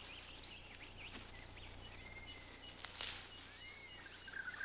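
Bush ambience of wild birds calling: a quick jumble of chirps and whistles, with a short note repeated a few times a second underneath. There is a brief noisy rustle about three seconds in, and near the end a whistle that rises and falls.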